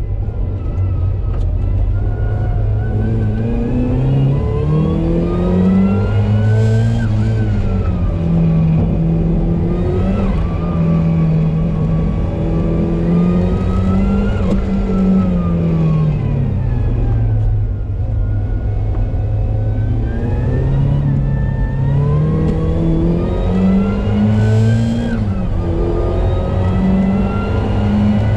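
Supercharged Mazda MX-5's four-cylinder engine heard from inside the cabin, driven hard on track. The engine note climbs in pitch under acceleration and falls away when slowing, several times over.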